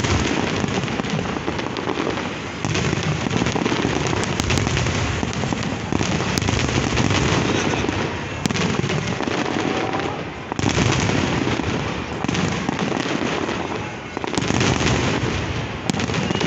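Large fireworks display going off without a break: a dense run of bangs and crackling, easing briefly a few times.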